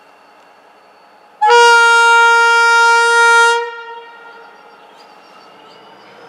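Train horn sounded once, a single steady note held for about two seconds starting about a second and a half in, over the low rumble of a train running through the station.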